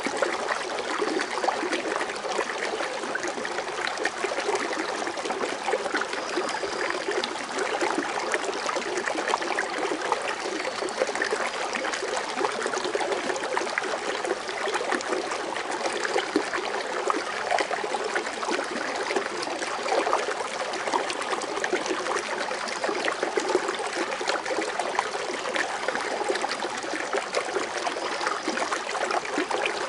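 Foaming water fountain splashing and trickling steadily: a continuous, even patter of falling water.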